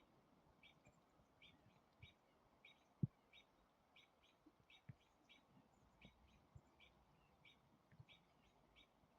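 Small birds giving short, repeated chirps, two or three a second, mobbing calls at a perched owl. Faint, with scattered low thumps, the loudest about three seconds in.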